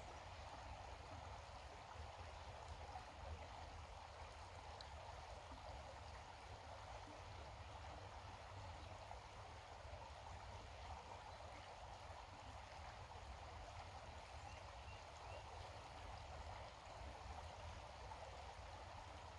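Faint, steady outdoor background noise: an even rushing hiss with a low rumble under it.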